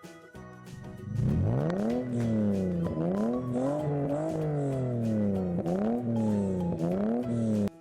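Car engine revving, its pitch swinging up and down several times, then cutting off abruptly; light background music plays underneath.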